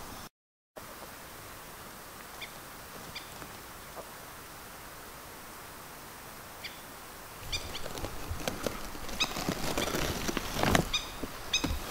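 A few short, sharp bird calls, including runs of three or four quick notes near the end, over a steady outdoor hiss. From about two-thirds of the way in, knocks, rustling and a low rumble come in as the camera is handled and swung.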